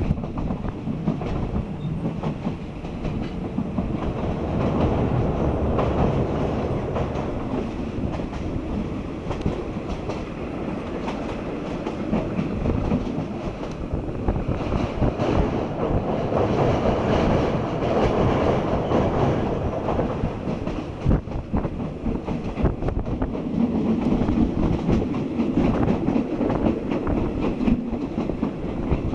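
Passenger train running along the line, heard from aboard: wheels clattering over the rails and the carriage rattling, with the loudness swelling and easing.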